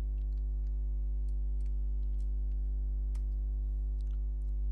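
Computer keyboard keys clicking in a scattered, irregular run as a terminal command is typed, over a steady low electrical hum.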